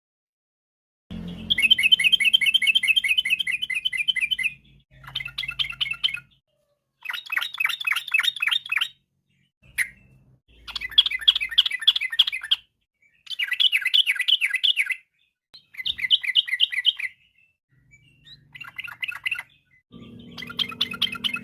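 Yellow-vented bulbul singing: a series of rapid trilled phrases, each one to three seconds long with short pauses between them, starting about a second in.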